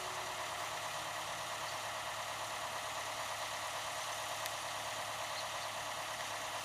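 An engine running steadily at idle, with a fine rapid pulsing.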